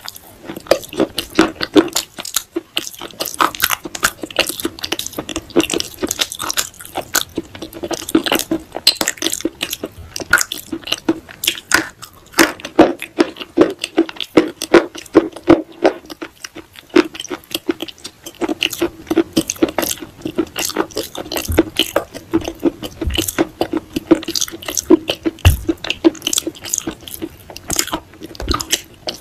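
Pieces of baked clay pot being bitten and chewed, a dense run of rapid, irregular crunches.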